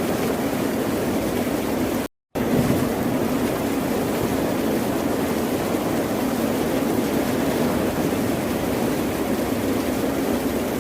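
Steady wash of ocean surf, broken by a brief cut to silence about two seconds in.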